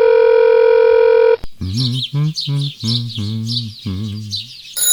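Added sound effects: a loud, steady electronic beep that cuts off about a second and a half in, then a run of about seven short, low, voice-like blips with high chirps over them.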